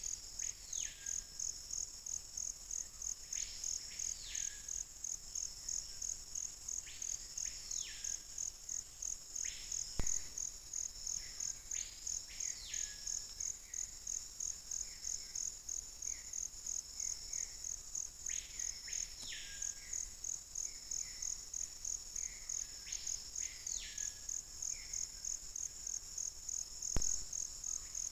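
Forest bird, the one the title calls the peito-de-aço, repeating a whistled call that rises, holds and falls back, one call every few seconds, over a steady pulsing insect trill. Two brief knocks, about ten seconds in and near the end.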